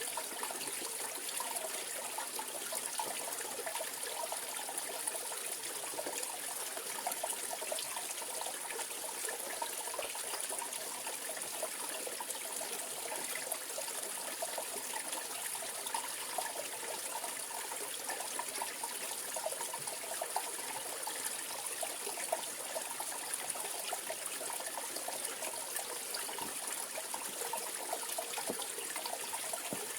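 Mountain valley stream running steadily over rocks, a constant rushing with a fine bubbling and gurgling texture.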